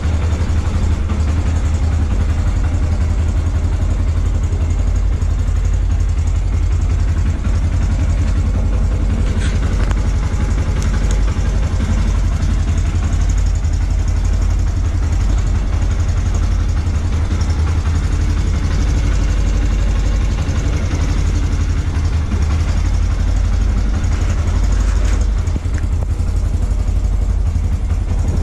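Yamaha YBR 125's single-cylinder four-stroke engine idling steadily, a dense, even low rumble.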